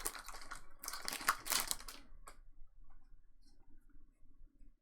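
Crinkling and tearing of a foil trading-card pack wrapper and cards being handled, dense for about two seconds. A single click follows, then only faint handling.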